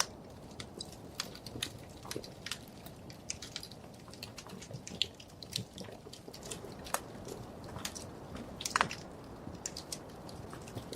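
Wood fire crackling in a fireplace: irregular sharp pops and snaps over a low steady hiss, with one louder pop about nine seconds in.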